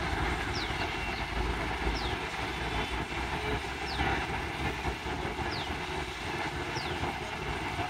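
Passenger train hauled by a diesel locomotive running away along the track, a steady even rumble with no sharp rises or drops. Short high falling chirps come every one to two seconds over it.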